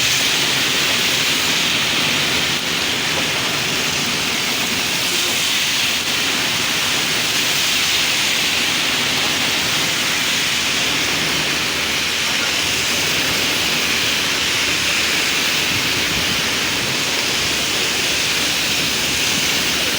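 Heavy rain falling, a steady loud downpour without letup.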